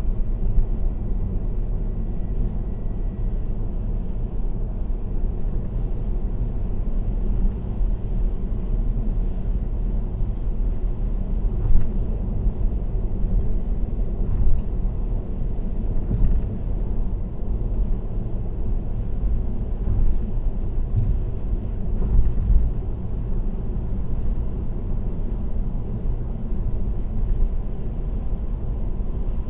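Steady tyre and road noise of a car cruising on an expressway, heard from inside the car as a low rumble, with a few faint ticks now and then.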